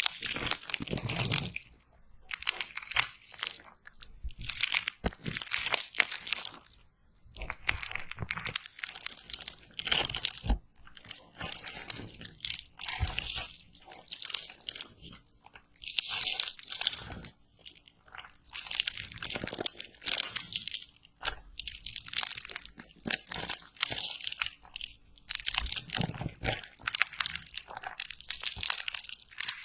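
Slime being squeezed and worked by hand close to the microphone: a dense, irregular run of crackles and clicks with brief pauses.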